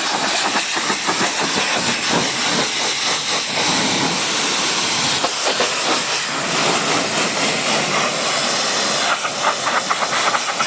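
Steady hiss of a high-pressure water spray from a pressure washer.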